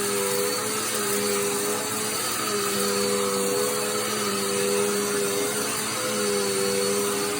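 Dirt Devil Endura Reach bagless upright vacuum cleaner running in floor mode while vacuuming a mat. It is a steady motor whine over a rush of air, with the motor tone shifting between two pitches every second or two.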